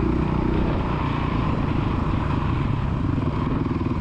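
Dirt bike engine running steadily under throttle.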